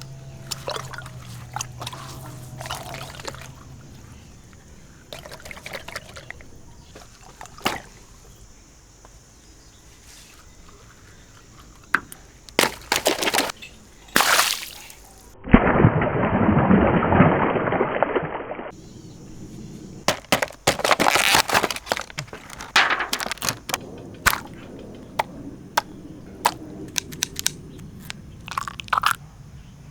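Water splashing around a water-filled stretchy toy, with scattered sharp clicks and knocks. About halfway through, a loud rush of water starts suddenly and lasts about three seconds.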